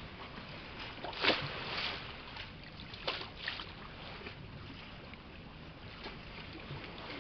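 Water splashing and lapping in short bursts over a steady outdoor hiss, the loudest splash about a second in.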